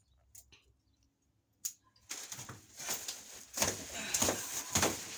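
Rustling and scraping handling noise as a refrigerator is gripped and shifted by hand, starting about two seconds in after a couple of soft clicks.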